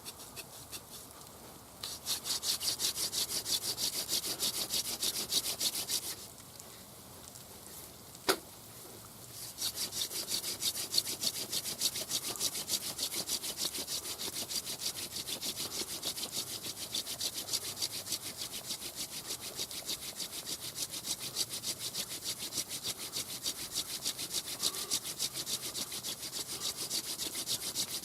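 Rhythmic back-and-forth strokes of wood rubbing or sawing against wood, running for a few seconds, stopping with a single sharp click in the pause, then resuming steadily.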